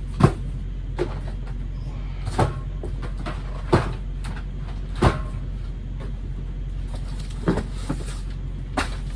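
Boxed cases being set down and shifted while loading a delivery dolly: eight sharp knocks and thumps spaced a second or two apart, the loudest near the start, over a steady low hum.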